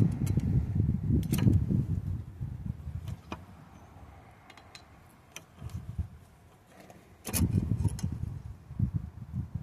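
Bolts on a power rake blade being snugged up with a Robertson screwdriver: metal clicks and clinks over a low rubbing rumble of handling. The rumble eases off in the middle and comes back about seven seconds in.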